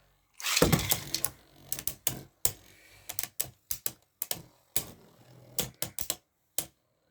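Irregular sharp plastic clicks and clacks from Beyblade parts being handled and snapped together while a combo is assembled, with a denser burst of clatter about a second in.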